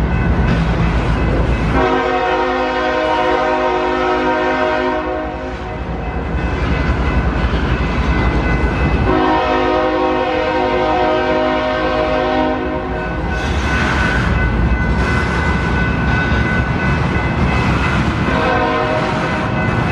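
Union Pacific freight locomotive's multi-chime air horn sounding two long blasts and then a short one near the end, over the steady rumble of the train rolling past. These are warning blasts for the street crossings along the line.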